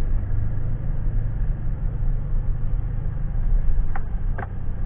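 Steady low engine rumble, with two faint short chirps about four seconds in.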